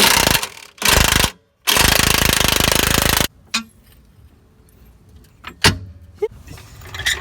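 Impact wrench hammering on a suspension bolt in three bursts, the last and longest about a second and a half, followed by a single sharp metallic knock.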